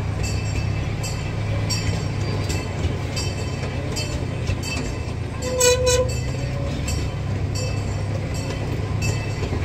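Miniature park train riding along, a steady low rumble with regular clicking about twice a second from the wheels on the track. About halfway through, the train's horn gives two short toots.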